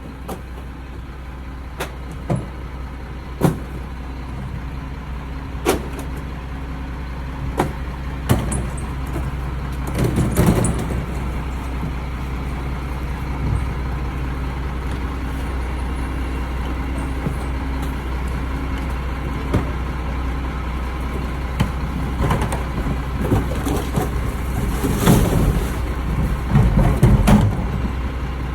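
Mack RD garbage truck running steadily, with scattered sharp metal knocks and clanks. There is a rougher stretch of rattling about ten seconds in and denser clattering near the end.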